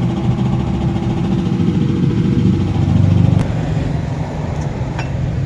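A motor running steadily with a low hum. It grows louder for about a second just past the middle, then drops back abruptly.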